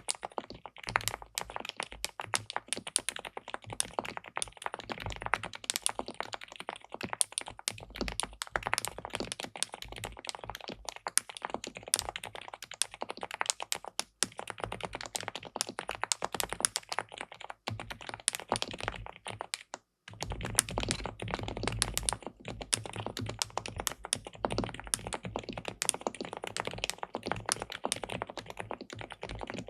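Fast, continuous typing on an SPM PL87W tenkeyless mechanical keyboard with linear switches: a dense patter of keystrokes. It stops briefly twice, about halfway through and again about two-thirds in, and after the second stop the keystrokes sound deeper.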